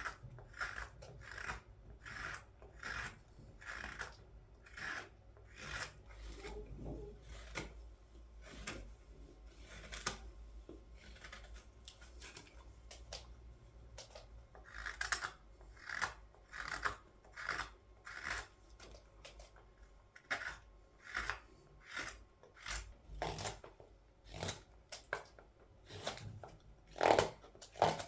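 A large curved hollowing knife cutting into the green wood inside a large scoop's bowl, taking one short scraping cut after another, mostly about one and a half a second, with a looser, quieter patch a little before the middle.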